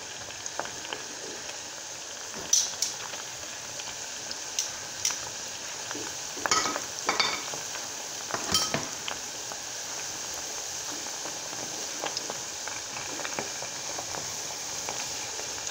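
Breaded mozzarella cheese sticks deep-frying in hot oil in a stainless steel skillet: a steady sizzle and bubbling. A few sharp clicks sound over it, loudest about six and a half to seven and eight and a half seconds in.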